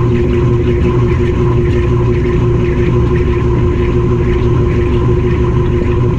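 GE GTW220ACKWW top-loading washing machine running, heard from inside the tub: a loud, steady motor hum with soft swishing about twice a second.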